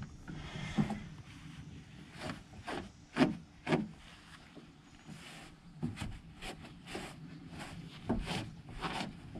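Short, irregular spritzes and scuffs from a hand trigger spray bottle spraying stain remover onto a cotton T-shirt, with the fabric rubbed by hand.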